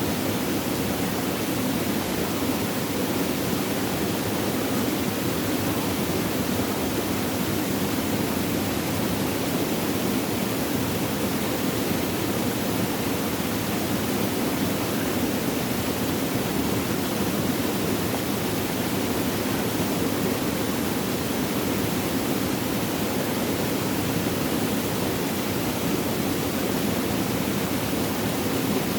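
Flowing water, a steady unbroken rush with no changes or single events.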